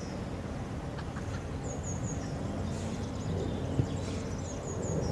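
Steady low outdoor background rumble with a small bird calling in quick sets of three short, high, falling chirps, twice, about two and a half seconds apart; a single soft thud a little before the second set.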